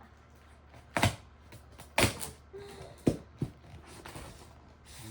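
A few sharp knocks and thuds about a second apart, the last two close together, from boxes and packages being handled.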